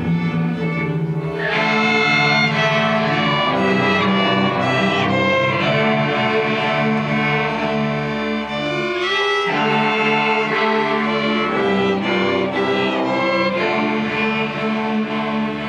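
A school string orchestra of violins, cellos and basses playing a piece together, with many bowed notes moving quickly over a sustained low part.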